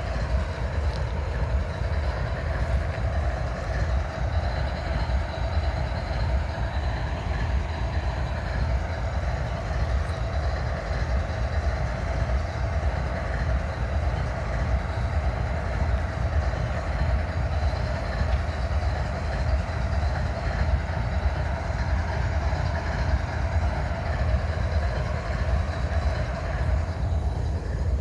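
Diesel locomotive of a standing train idling, a steady low rumble with a constant hum above it that does not change.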